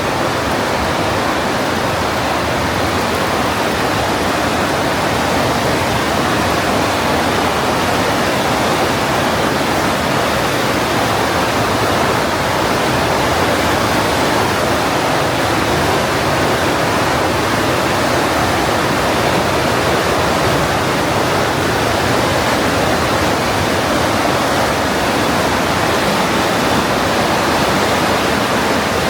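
The Partnach, a glacial-meltwater mountain stream, rushing through its narrow gorge: loud, steady whitewater noise.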